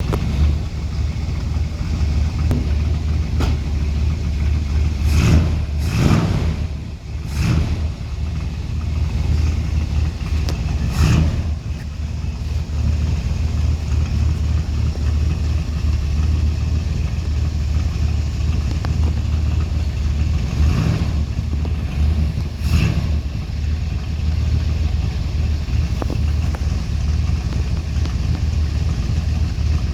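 A motor vehicle engine running with a steady low drone, with a few brief louder bursts scattered through it.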